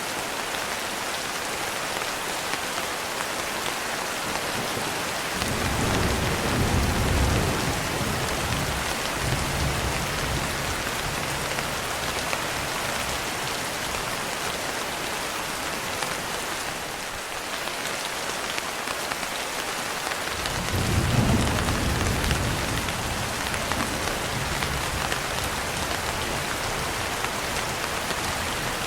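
Steady rain falling on a window, with two long rolls of thunder: one beginning about five seconds in and another about twenty seconds in.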